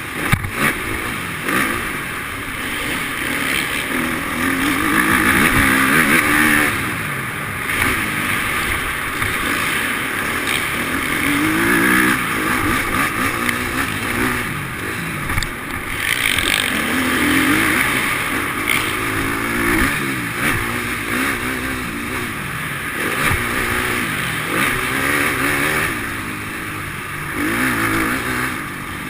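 Motocross bike engine revving up and down over and over, its pitch rising and falling every couple of seconds as the throttle is opened and closed.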